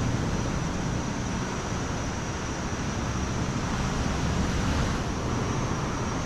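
Steady outdoor background noise with a low rumble and no distinct events, with a faint thin high tone held throughout.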